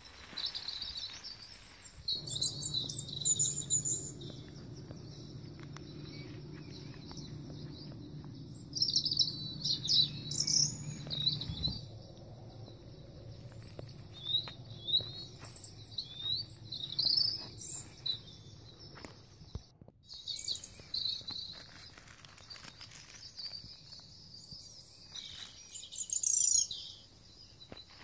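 Small birds chirping, with many short high-pitched calls scattered through, loudest in clusters near the start, in the middle and near the end. Underneath is a low steady hum that stops abruptly about a third of the way in.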